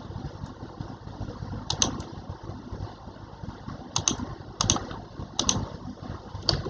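Keys being pressed on a keyboard: a few separate clicks, several in quick pairs, spread out over a low steady rumble.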